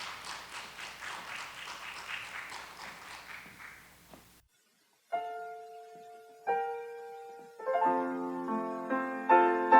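Applause fading out and cut off abruptly about four seconds in. After a second of silence a piano begins, single notes at first, then fuller chords growing louder.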